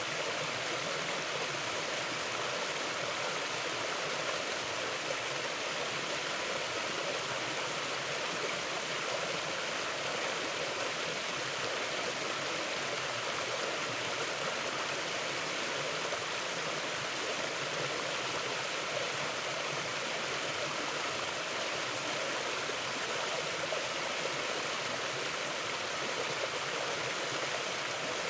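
Steady rushing and babbling of a mountain river flowing over rocks.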